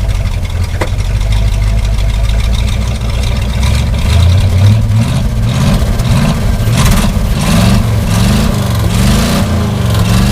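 The 1968 Chevy C60 truck's 283 small-block V8, just caught after a hard cold start and running rough and complaining while still cold. From a few seconds in it is revved up and down repeatedly, its pitch rising and falling.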